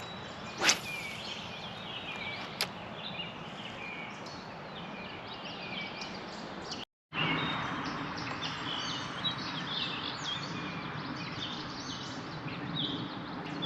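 Small birds chirping over the steady rush of a shallow creek. There is a sharp swish-like click about a second in and a smaller click near three seconds. The sound cuts out for a moment about seven seconds in, and the water is louder after it.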